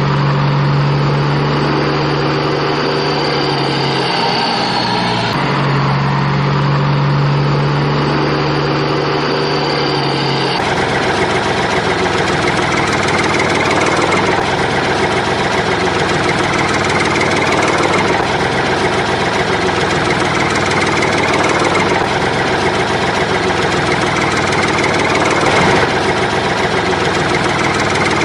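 An engine running with a steady hum that drops out briefly around four seconds in. About ten seconds in it cuts abruptly to a rougher, noisier engine sound that swells and fades about every two seconds.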